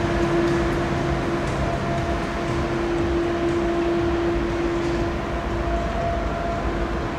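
ICE T high-speed electric multiple unit rolling slowly into the station: a steady electric hum from its traction and cooling equipment over a low rumble of wheels on rail.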